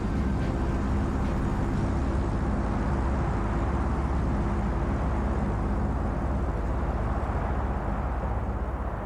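Deep, steady rumble of a simulated nuclear blast, the 50-megaton Tsar Bomba, easing slightly near the end. Faint music trails off in the first couple of seconds.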